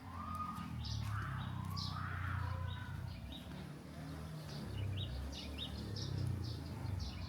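Birds chirping in short, high, repeated notes over a low, steady rumble.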